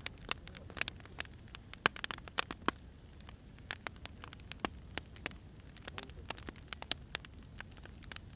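Wood fire crackling: irregular sharp pops and snaps from burning firewood over a low, steady rumble.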